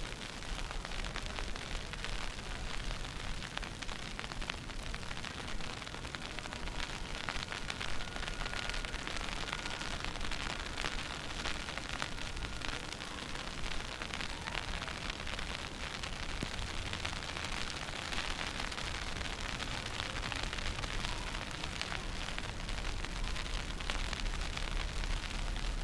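Steady outdoor noise of a snowstorm street walk: wind buffeting the microphone with a low rumble and a constant crackling hiss. A faint steady high tone sounds for a few seconds about a third of the way in.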